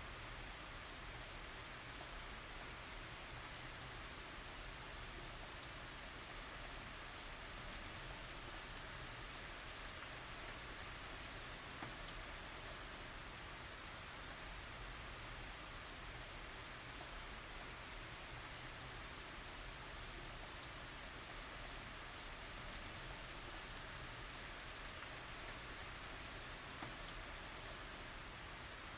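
Steady tropical rain falling and pattering on surfaces, an even hiss with fine drop ticks and no thunder.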